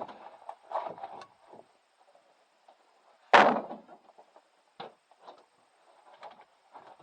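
Firewood being handled: a few wooden knocks, then one loud impact about three and a half seconds in, followed by scattered lighter knocks.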